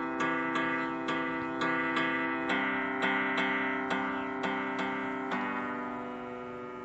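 Song intro on acoustic guitar: chords plucked or strummed about twice a second, the chord changing twice, the last one left ringing and fading near the end before the vocal comes in.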